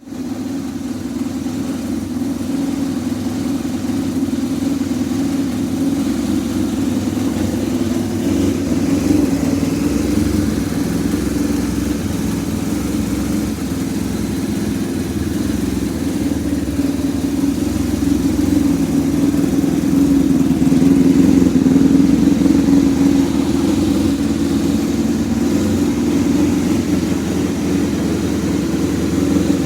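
Honda VF400F's 400 cc V4 engine running steadily at idle through a 4-2-1 exhaust with a straight pipe, growing slightly louder over the stretch.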